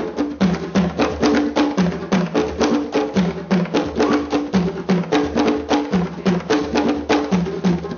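Drums playing a fast, steady rhythm for African dance, with low pitched drum tones and sharp strokes several times a second.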